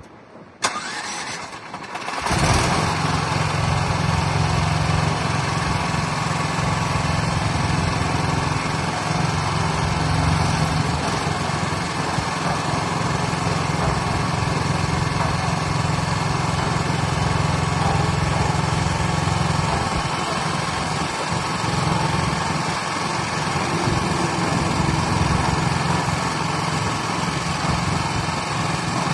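The 13.5 HP engine of a self-loading mini concrete mixer truck starting up about half a second in and catching to run steadily at a constant speed by about two seconds in.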